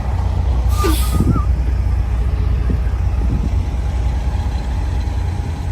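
Large vehicle engine, likely a truck's, running with a steady low rumble and a faint steady whine above it.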